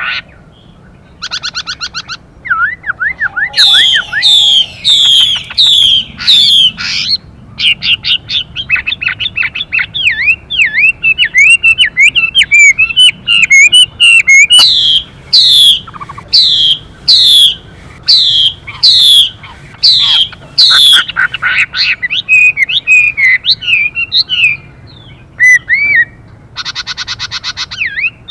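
Chinese hwamei singing a loud, fast song of repeated whistled phrases, rapid down-sweeping and looping notes. A few short, harsh buzzing calls are mixed in, which match the female hwamei's 'xùy' calls that spur the male to sing.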